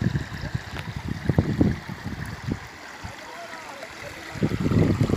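Swollen tidal river water flowing and rushing, with irregular low gusts buffeting the microphone that grow louder near the end.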